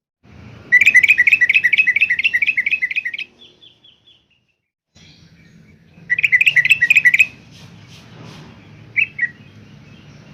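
Yellow-vented bulbul singing: a fast run of bubbling notes lasting over two seconds, a second, shorter run about six seconds in, then a brief two-note call near the end.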